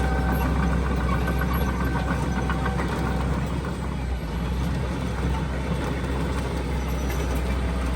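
Heavy earthmoving machinery's diesel engine running steadily, a low even rumble.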